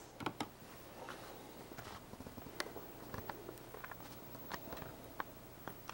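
Faint, irregular clicks and light taps, about a dozen scattered through, over a low steady hum.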